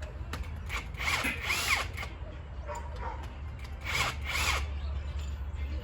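Power tool running in two short bursts, each about a second long, a few seconds apart, over a steady low hum.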